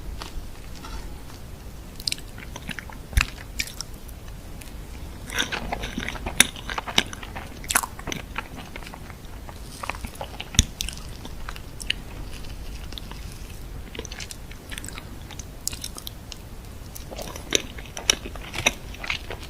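Close-miked eating sounds: a person biting and chewing chocolate desserts, with wet mouth clicks and bits of crunch in irregular clusters.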